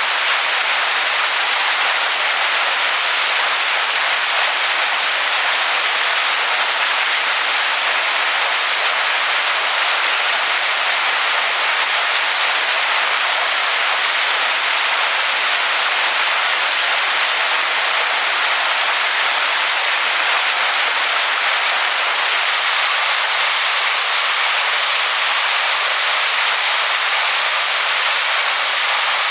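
Waterfall pouring onto rocks: a steady, unbroken rush of water, bright and hissy with little deep rumble.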